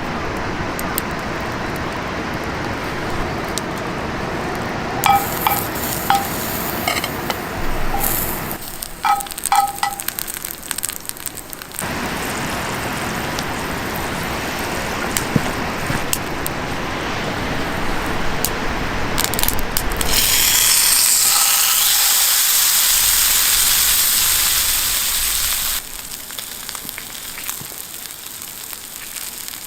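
Food sizzling in a pan over a campfire, with a few ringing metal clinks in the first third. The sizzle is loudest for several seconds past the middle, then drops suddenly near the end.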